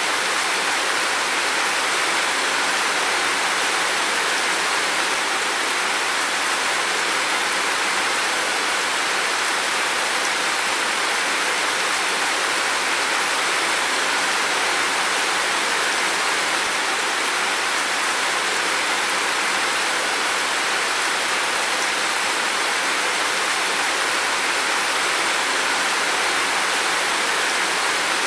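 Heavy rain falling in a steady, even hiss, with no single drops or thunder standing out.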